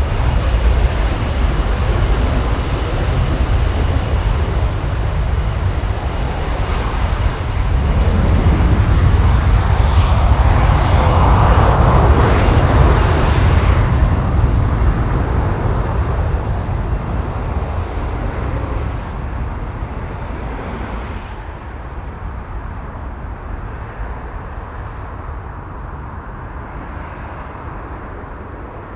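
Aircraft engine noise as a plane passes, swelling to its loudest about twelve seconds in and then fading steadily away.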